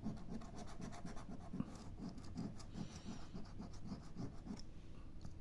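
Mission Nature scratch-off lottery ticket being scratched, a fast run of short rubbing strokes, about four a second.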